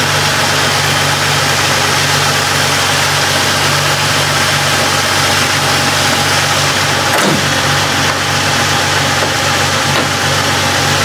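Turbocharged Jeep Wrangler TJ 4.0 straight-six idling steadily with a slight shimmy: a persistent miss that swapping the cylinder 4 injector and clearing the codes has not cured.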